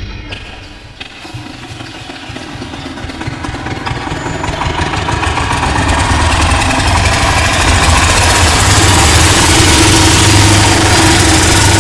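Small engine of a DIY mini diesel tractor starting up and coming up to a steady run. It grows louder over the first several seconds, then holds an even hum.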